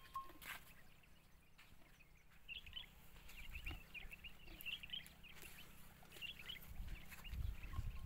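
Small birds chirping in a rapid, irregular chatter of short high notes that starts a couple of seconds in, with a low rumble near the end.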